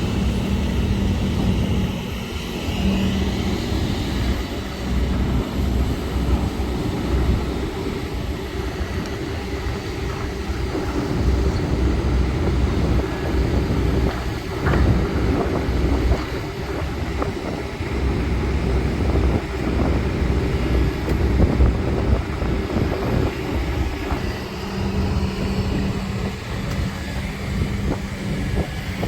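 Heavy diesel excavator engine running steadily under load, with a few short knocks and clanks around the middle.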